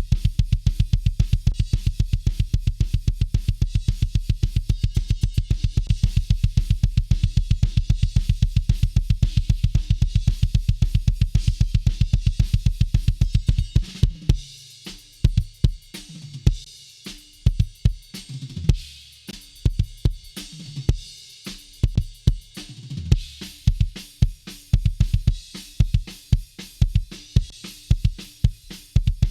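Recorded metal drum kit playing back through a dbx compressor. It opens with a fast, unbroken run of kick-drum hits under cymbals. About halfway it breaks into a slower, sparser beat of separate kick, snare and cymbal hits.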